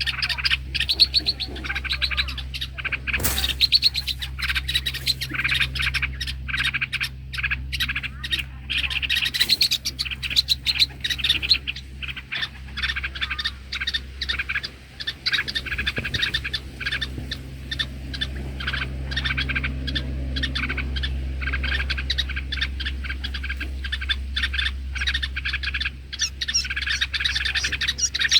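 Small birds chirping rapidly and continuously, with many quick notes, over a steady low hum.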